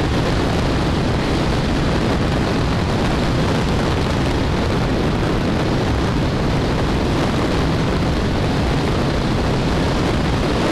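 Steady wind rush and riding noise on a helmet-mounted camera's microphone as a Royal Enfield single-cylinder motorcycle is ridden at speed, the engine running under the wind.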